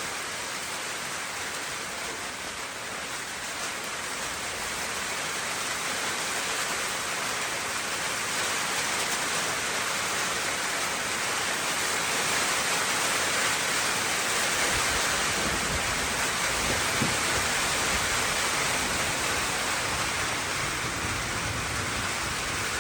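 Steady rain falling, an even hiss that swells a little louder partway through. A low rumble joins in during the last third.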